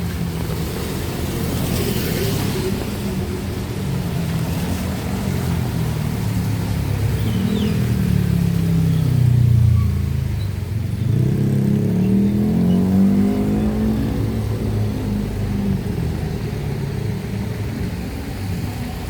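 Street traffic: motor vehicle engines running close by. One engine's pitch slides down and then back up between about eight and thirteen seconds in, loudest around ten seconds in.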